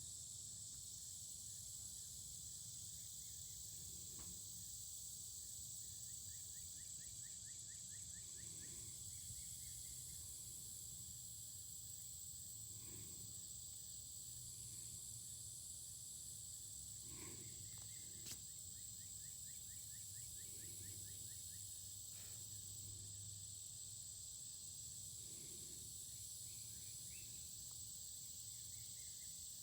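Faint, steady hiss of a creek's running water. Several times, a short trill of rapid ticks sounds over it.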